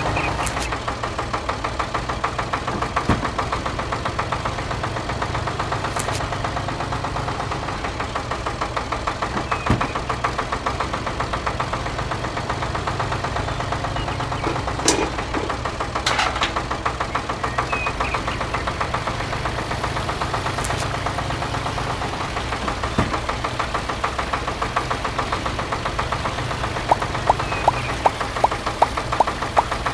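Engine running steadily with a fast, even knocking chug, typical of a small diesel. A few isolated clicks sound through it, and a quick run of sharp clicks comes near the end.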